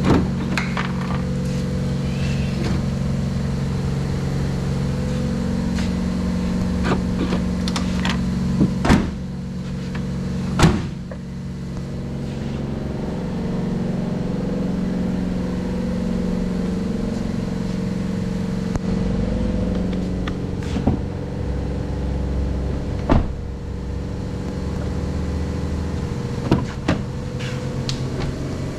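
Ford F-150 3.5-litre V6 engine running steadily at idle, with sharp clicks and knocks now and then.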